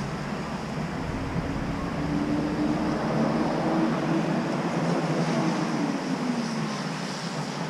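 An engine running under a steady noise bed, its tone rising a couple of seconds in, holding, then sliding down again over the last few seconds.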